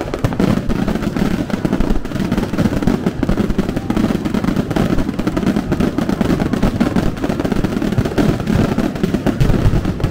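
Fireworks display going off: a dense, continuous crackle of rapid bangs with no pause.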